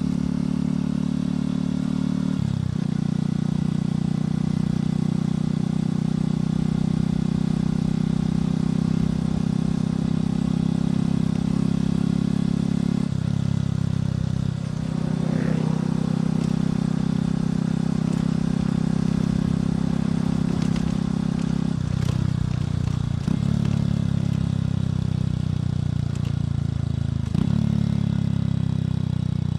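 Motorcycle engine and exhaust running steadily under way, its note shifting to a new pitch several times as the throttle and gears change.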